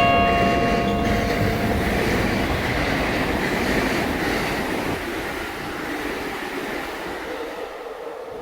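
A train running on rails, a steady rumbling rattle that fades over the last few seconds. A chime's tones die away in the first second or two.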